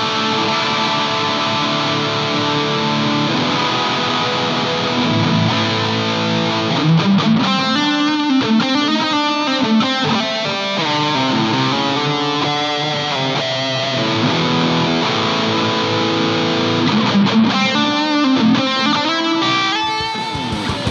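Electric guitar played through distortion: held, ringing chords, then fast single-note lead runs with sustained notes between them.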